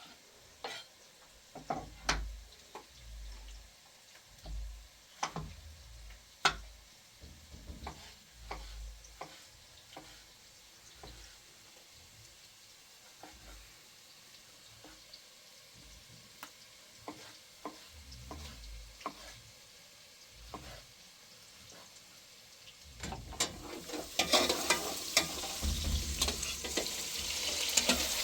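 Scattered light clicks and knocks, like utensils being handled, then near the end a louder sizzling hiss full of crackles sets in, like food frying in hot oil.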